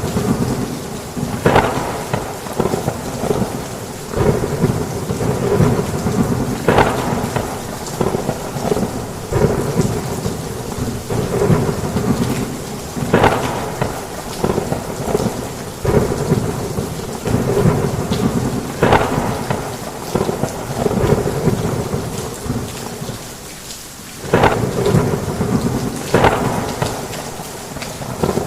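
Heavy rain pouring steadily, with thunder rumbling and swelling in waves every few seconds.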